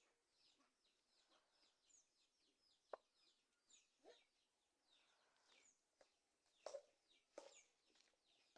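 Faint, repeated high chirps of birds, each sliding down in pitch, with a few sharp clicks about three seconds in and near the end.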